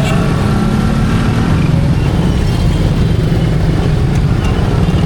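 Motor vehicle engines running steadily in close street traffic, a continuous low rumble.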